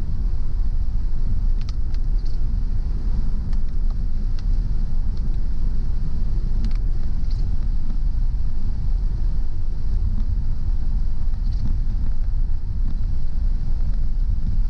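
A car driving along a road: a steady low rumble of road and engine noise, with a few faint, scattered high ticks.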